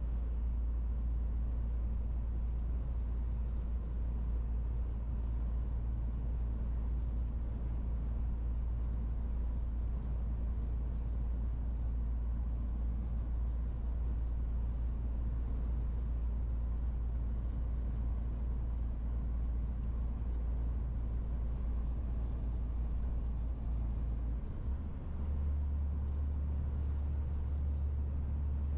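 MAN TGX 18.470 truck's straight-six diesel engine running under way, a steady low drone over road noise. Its pitch steps up sharply a few seconds before the end, as the engine speed changes.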